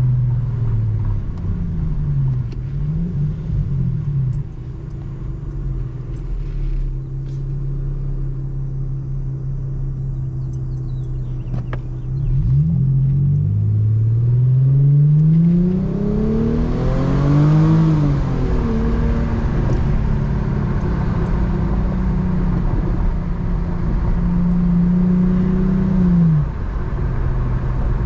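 Muffler-deleted exhaust of an Infiniti G35's VQ35HR 3.5-litre V6 while driving with a manual gearbox. Revs fall off at first, then hold a steady low cruise. From about 12 seconds in they climb in two pulls through a gear change to a peak near 17 seconds, ease back to a steady cruise, and drop off suddenly near the end.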